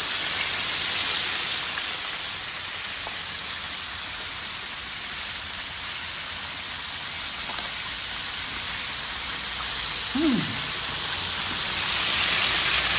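Chicken pieces deep-frying in a pan of hot oil: a steady crackling hiss, a little louder near the end. A short falling squeak about ten seconds in.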